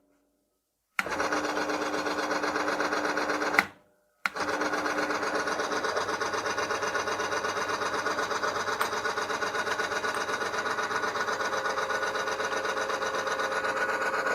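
Friction test bench running: an electric motor turns a steel roller against a hardened steel ball loaded by a lever arm, with a fast, even ripple. It runs on smoothly without seizing, because the metal surfaces have been treated with P18 rather than oil. Two short breaks in the first four seconds.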